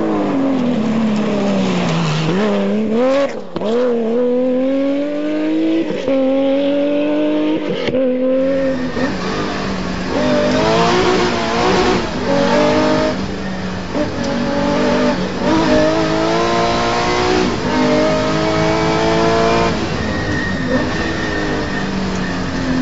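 Porsche 911 rally car's flat-six engine revving hard through the gears, its pitch falling under braking at first, then climbing in repeated sweeps that drop back at each gear change. From about eight seconds in it is heard from inside the car, rising in quick runs about every second or two.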